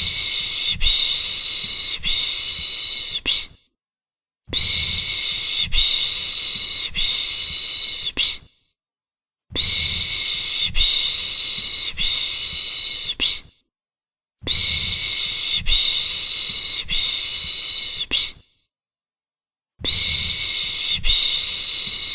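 A long soothing 'shhh' shush for lulling a baby, held about four seconds at a time and repeated every five seconds with a second of silence between. Each hiss has slight breaks about once a second.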